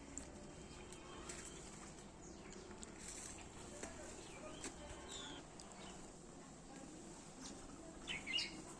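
Birds calling now and then with short, high chirps and whistles, the loudest burst of calls near the end, over a faint steady background hum.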